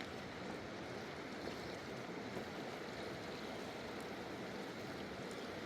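Fast mountain river rushing over rocks: a steady, even roar of running water.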